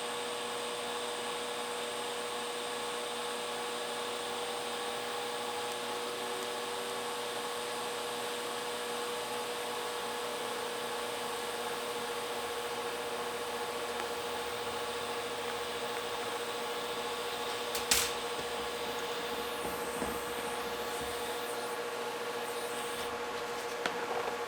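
Steady machine hum and hiss from running shop equipment, with one sharp click about eighteen seconds in and lighter knocks near twenty and twenty-four seconds.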